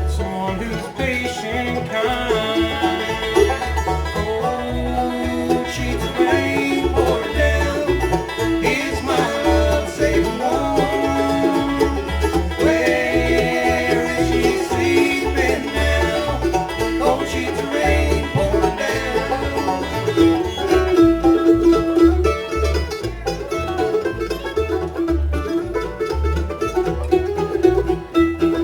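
Bluegrass band playing an instrumental break: banjo, guitar, mandolin, fiddle and bass together, with a melody line sliding and bending over a steady, driving bass rhythm.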